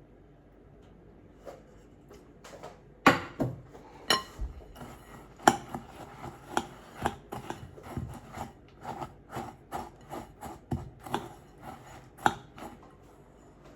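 Knife chopping food on a cutting board: irregular sharp knocks about one or two a second, starting a few seconds in and stopping shortly before the end.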